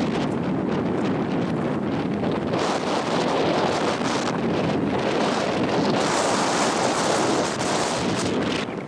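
Strong coastal wind buffeting the microphone, a loud rumbling rush that swells with higher-pitched gusts twice.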